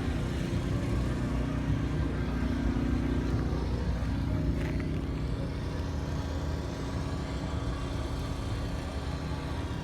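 A car engine running steadily at low speed, a constant low hum with no revving.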